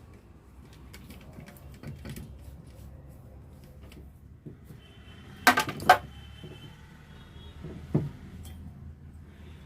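Metal tools and alternator parts clinking and knocking while a Bosch 12 V alternator is taken apart, with a loud clank about halfway through that rings briefly and another knock near the end.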